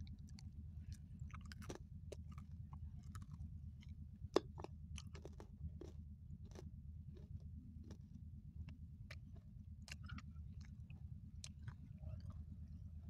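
A person chewing food close to the microphone, with scattered wet mouth clicks and crackles and one sharper crunch about four seconds in.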